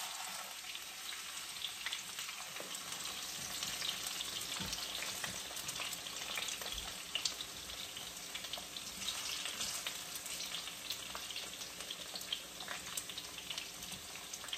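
Potato chunks frying in hot oil in a skillet: a steady sizzle with frequent small pops and crackles as they are turned with chopsticks.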